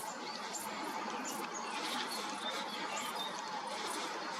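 Many small birds chirping and chattering at once, a flock's steady din dotted with short, high chirps and squeaks.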